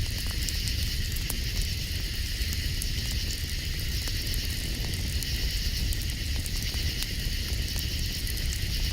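Campfire crackling with scattered small pops, over a steady high chorus of night insects and a low, even rumble.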